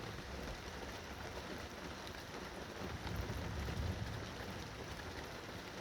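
Steady rain falling, a continuous even hiss, with a low rumble that swells and fades again about three to four seconds in.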